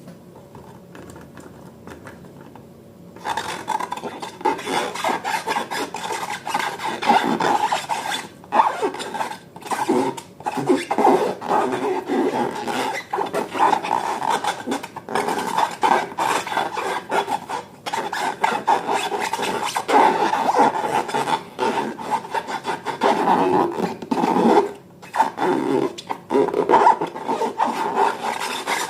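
Continuous rubbing and rasping handling noise made of many quick, irregular strokes, starting about three seconds in, as balloons and slime materials are worked by hand.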